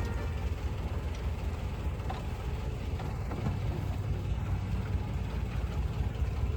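A riverboat's engine running steadily, a low continuous rumble.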